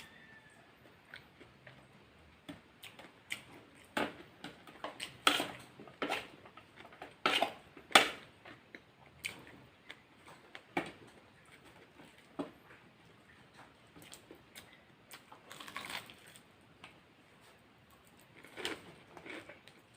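A person eating close to the microphone: irregular wet chewing and biting clicks, with a run of louder crunchy bites about four to eight seconds in and another cluster near the end.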